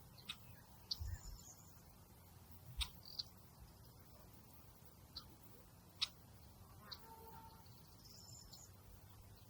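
Quiet outdoor nature ambience: a faint hush with scattered sharp ticks, about seven in all, and a few brief, faint high chirps.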